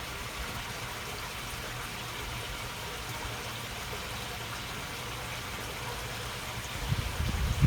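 Water flowing steadily along a small well-fed waterway, a soft, even babbling. A low rumble comes in near the end.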